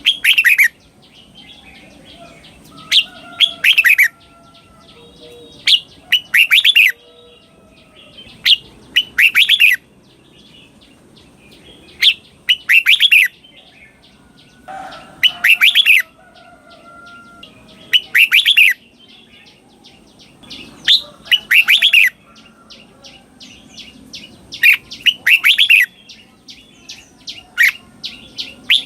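Red-whiskered bulbul singing loud, short whistled phrases, one burst every two to three seconds, often doubled in quick succession, with fainter quick chips between the phrases.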